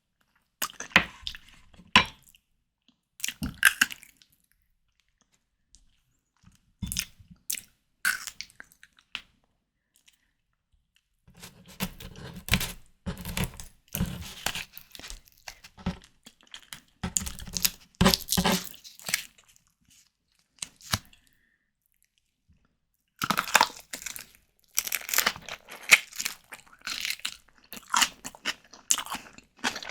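Close-miked eating of white tiger prawns in prawn cocktail: bursts of biting, chewing and wet mouth clicks and smacks, broken by two short silent pauses.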